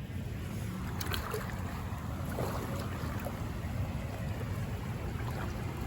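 Steady low rushing noise of flooded creek water, with wind on the microphone.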